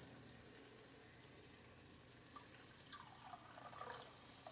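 Faint trickle of water running into a measuring cup, starting about halfway in, with a few small drips and clicks.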